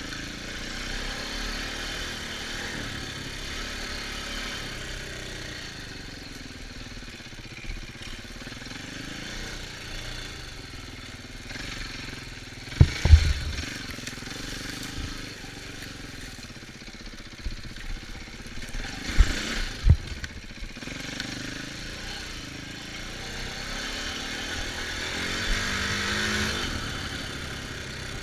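Dirt bike engine running, its pitch rising and falling with the throttle. Short loud knocks come twice near the middle.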